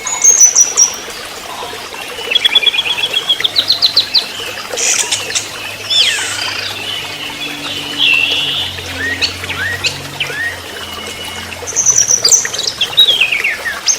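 Orange-headed thrush (anis merah) singing a varied song: quick runs of repeated notes, high trills at the start and near the end, and several down-slurred whistles.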